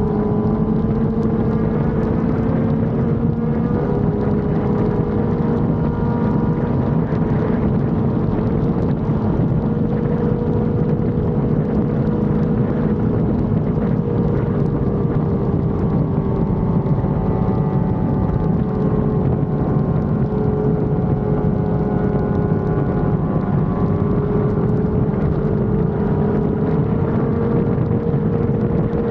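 Sport motorcycle engine running at a fairly steady cruise, its pitch drifting slowly up and down, with wind rushing over the microphone.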